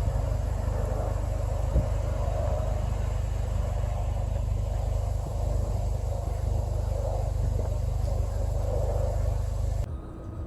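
Mercedes-Benz C250's engine idling steadily with a low rumble, with one short click about two seconds in; the sound cuts off abruptly near the end.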